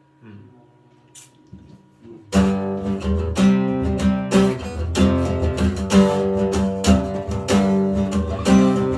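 Live worship band playing an instrumental intro: strummed acoustic guitar with bass and a steady beat. After about two quiet seconds with a faint held tone, the full band comes in.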